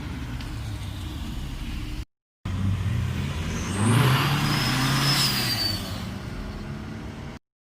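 Car engines running, then one car revving and accelerating, loudest about four to five seconds in, with a high whine over the engine note. The sound drops out briefly twice.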